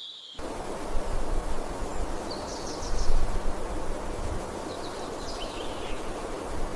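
Steady rushing of flowing water, like a river or stream, with a deep rumble beneath it. A few faint bird chirps come through twice in the middle.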